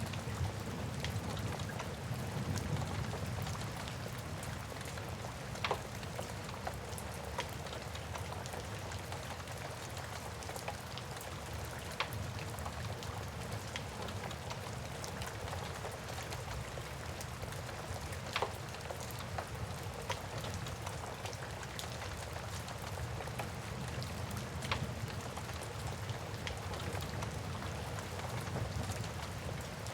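Steady rain with a low rumble underneath, mixed with a wood fire crackling, its small clicks scattered throughout and a few louder pops.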